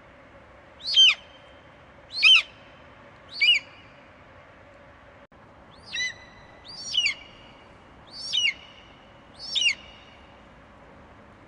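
An eagle screeching: seven short, high calls, each falling sharply in pitch, roughly one every second and a bit, with a slightly longer gap and a brief cut-out about halfway through.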